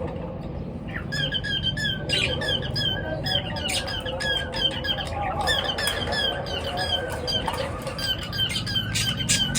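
A flock of small pet birds chirping and squawking, many short calls repeating rapidly and overlapping, starting about a second in.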